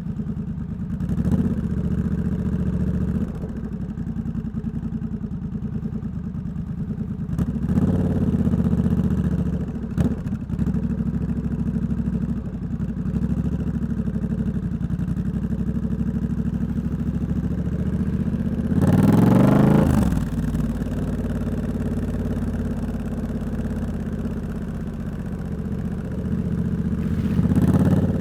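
Triumph Scrambler 1200 X's parallel-twin engine, loud through an aftermarket Hitchcox exhaust, running at low road speed with a few short rises of throttle. The strongest rise in revs comes about two-thirds of the way through.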